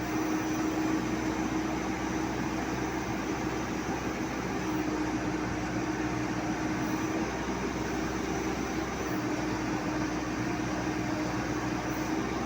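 Telehandler engine running steadily, a constant mechanical hum with an even low tone.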